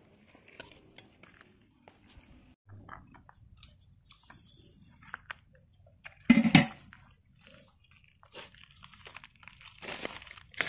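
People eating rice and rikwach, gram-flour-coated leaf rolls, by hand: chewing and light crunching with scattered small clicks. A brief loud burst of noise comes about six seconds in.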